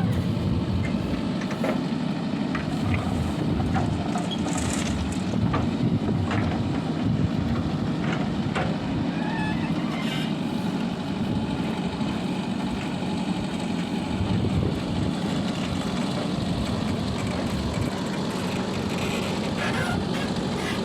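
Diesel engines of a backhoe loader and tractor running steadily under work, with a few sharp knocks scattered through.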